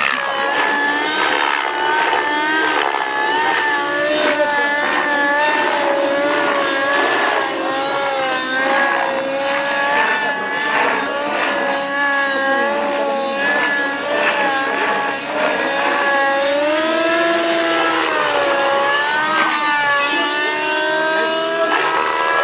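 Radio-controlled model helicopter flying, its engine and rotor whine wavering up and down in pitch as it manoeuvres.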